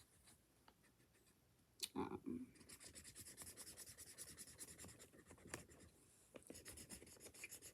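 Faint scratching of a marker or coloured pencil colouring in on paper, in fast back-and-forth strokes. It starts about two and a half seconds in, after a short soft sound.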